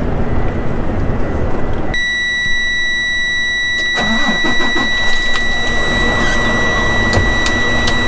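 A steady, high-pitched electronic warning buzzer starts about two seconds in and holds, sounding over the running engine of a heavy truck. The engine noise grows louder about halfway through.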